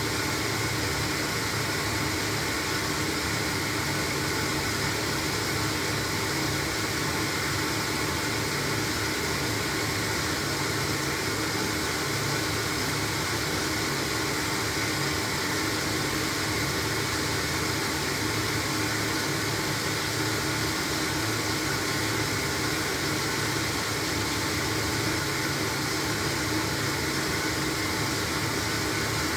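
LG washing machine running through its wash cycle, a steady hum and hiss that holds even throughout.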